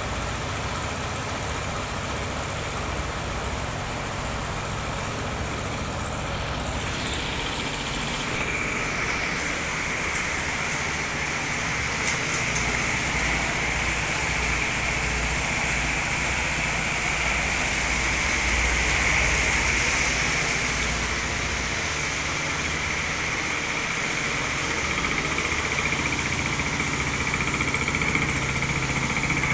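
Truck engine running steadily, with a steady high whine or hiss joining about eight seconds in.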